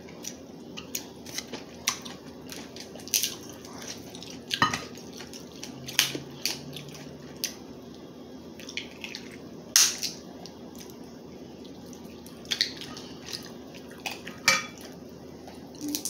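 Crab leg shells being cracked and picked apart: a series of irregular sharp cracks and clicks, the loudest about ten seconds in.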